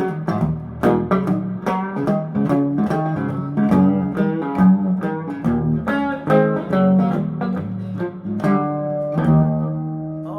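Guitar playing an instrumental intro with a bass line, a quick run of plucked notes that settles into longer held notes near the end.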